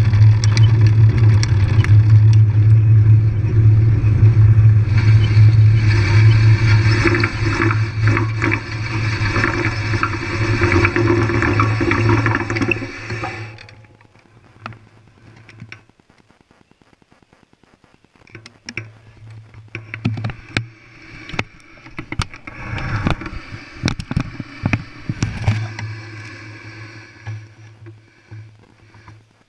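Riding noise from a bike on a trail: a steady low rumble with rattling over the camera's microphone. It drops away for a few seconds about halfway through, leaving faint regular ticking, then comes back less loud with sharper rattles.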